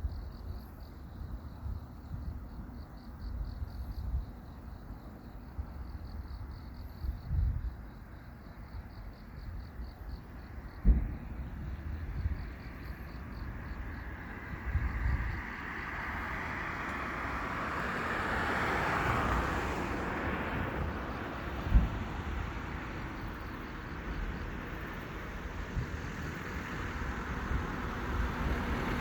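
Wind rumbling on the microphone of a handheld camera outdoors, while a road vehicle passes, its noise swelling from about halfway and fading again. Two short, sharp low thumps stand out, about eleven and twenty-two seconds in.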